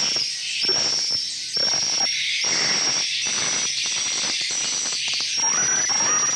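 Flock of edible-nest swiftlets twittering inside a swiftlet house: dense, rapid chirping with a high thin whistle-like note repeating about every half second.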